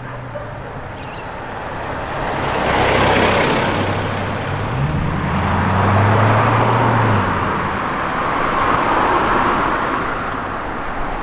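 Cars driving past at low speed, engines running. One engine's note rises about five seconds in, and tyre and road noise swell around three and six seconds.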